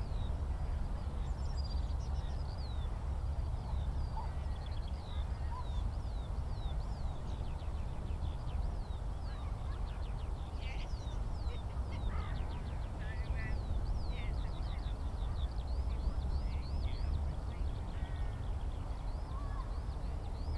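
Eurasian skylark singing: a continuous stream of rapid, high chirps and sweeping notes, over a steady low rumble.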